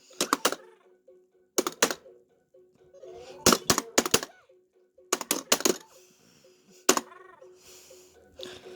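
Mattel Whac-A-Mole Arcade electronic game being played: sharp plastic knocks of mallet hits on the moles, often two or three in quick succession, over the game's steady electronic tone and short warbling sound effects.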